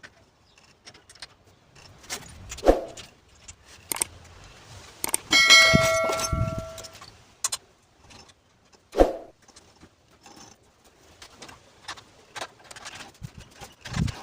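Metal parts and hand tools clinking and knocking during assembly work, with one loud ringing metallic clang about five seconds in that rings on for over a second.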